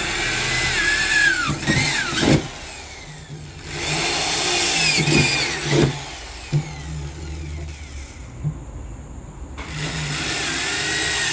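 Power drill boring into a fridge's shell in three bursts of about two to three seconds, the last starting near the end. The motor's whine falls in pitch as each burst winds down, with a few clicks in between.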